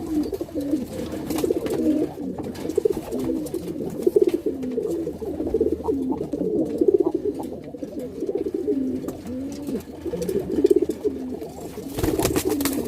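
Domestic pigeons cooing again and again, coos overlapping one another, the courtship cooing of a cock driving a hen. A brief clatter near the end.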